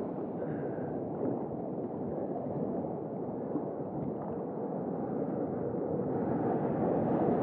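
Steady rushing of ocean surf and moving water, a little louder near the end.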